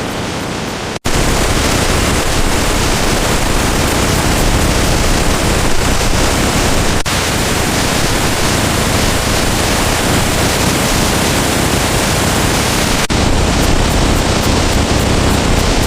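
Waterfall rushing close by: a loud, steady wash of falling water, broken by brief jumps in level about one, seven and thirteen seconds in.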